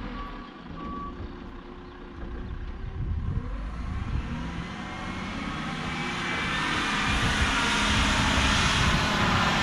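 Bobcat 753 skid-steer loader's diesel engine running, getting steadily louder over the second half as it picks up revs or load.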